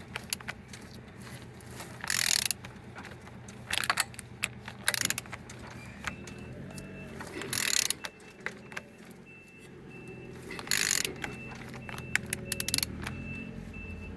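A Renault F9Q 1.9 dCi diesel engine out of its vehicle being turned over by hand with a wrench, making mechanical clicks and clunks, with five short hissing rushes spread through it. A steady low hum runs underneath.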